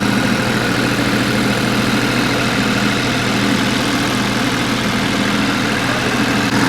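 Lombardini generator engine running steadily at a constant speed, with a strong, even low hum.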